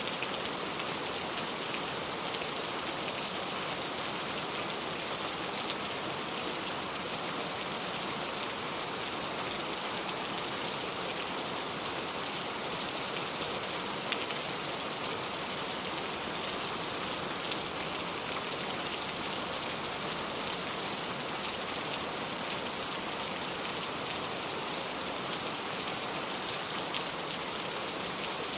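Heavy rain pouring down steadily in an even hiss, with a few faint sharp drop ticks here and there.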